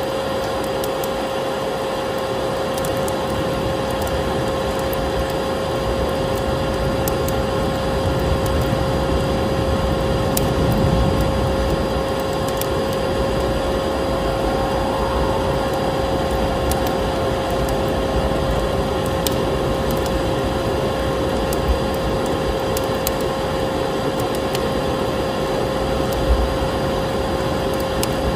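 Vacuum cleaner running steadily with a constant hum, layered with the crackle of a wood fire in a fireplace, with scattered sharp snaps.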